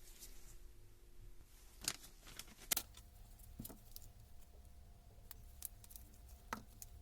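Scattered light clicks and knocks of tools and metal parts being handled on a workbench, the two loudest about two and nearly three seconds in.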